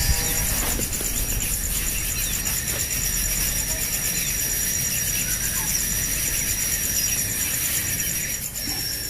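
A steady, high-pitched insect-like trill over a constant hiss and a low rumble; the trill stops shortly before the end.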